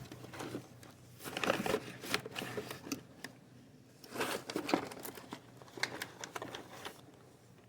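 Hand-handling noise while working on a chainsaw: rustling and small clicks of parts being picked up and moved, in a few short bursts about a second, four seconds and six seconds in.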